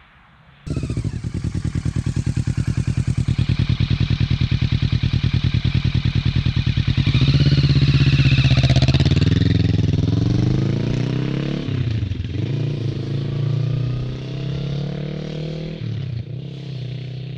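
Kawasaki Ninja 650's parallel-twin engine heard through its exhaust: it comes in suddenly with a loud, lumpy, evenly pulsing idle, then revs up from about seven seconds in and pulls away. The pitch climbs and drops sharply twice, at gear changes about twelve and sixteen seconds in.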